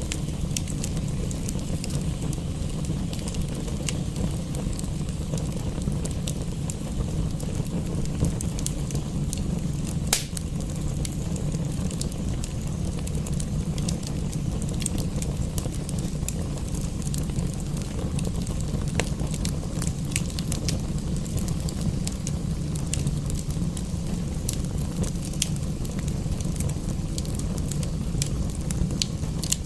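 Wood fire crackling in a fireplace: scattered small pops and snaps, one sharper pop about ten seconds in, over a steady low rumble.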